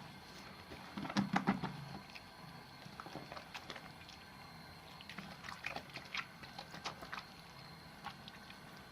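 Wet soap being lathered, with squelchy, crackling foam sounds in two spells: a louder one about a second in and a longer, lighter one from about five to seven seconds.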